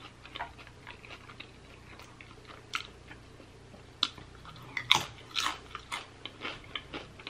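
A tortilla chip bitten and crunched, then chewed, close to the microphone. Faint small mouth clicks at first, a sharp crack of the bite about four seconds in, then a run of crunching chews.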